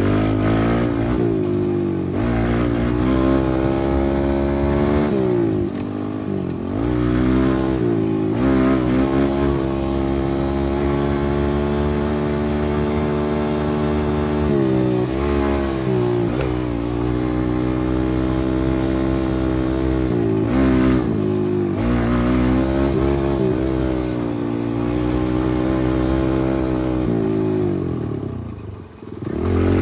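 Pit bike engine running under load, its pitch climbing and dropping over and over as the throttle is opened and backed off. The throttle closes briefly near the end before it picks up again.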